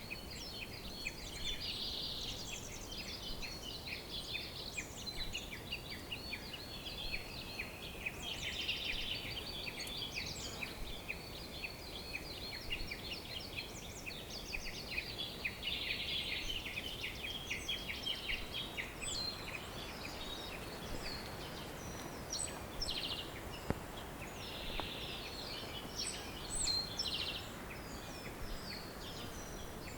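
A chorus of songbirds chirping and trilling, many quick overlapping calls over a steady low background hiss. The calls thin out to scattered chirps in the last third.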